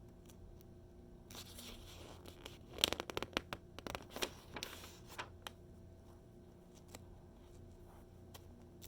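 A magazine page being turned by hand: a soft slide of paper, then a quick run of crisp paper crackles as the page flips over and settles, followed by a few light ticks of handling.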